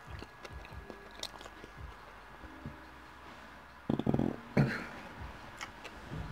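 Close-miked chewing and small wet mouth clicks of a man eating a fish sandwich. About four seconds in comes a loud, short, low throat sound from behind his hand, then a sharp short sound just after.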